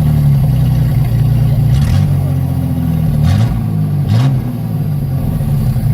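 1984 Ford Ranger engine running loud through an exhaust with the muffler removed, its pitch dipping and rising again a few times around the middle.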